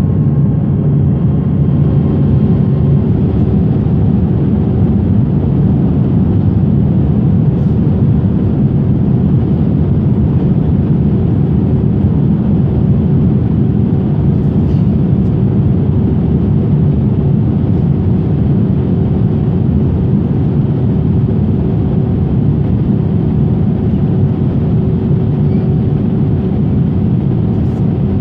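Steady engine and airflow noise inside a passenger airliner's cabin: a loud, even rumble with a faint steady hum over it.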